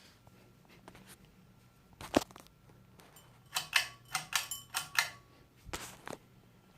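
A series of sharp clicks and taps: one about two seconds in, a quick cluster of them in the middle, and one more near the end, over a faint, steady low hum.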